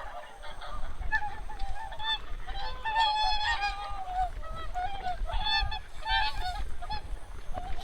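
A flock of migratory geese and swans calling, many honking calls overlapping, densest about three seconds in and again around six seconds.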